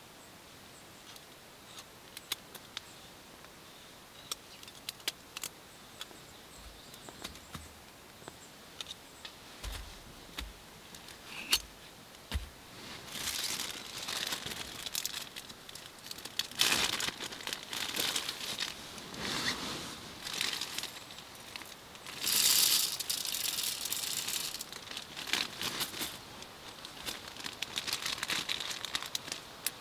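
Plastic packaging crinkling and rustling as it is handled, in irregular bursts through the second half, loudest a little past the middle. Before that, only scattered faint clicks and small handling noises.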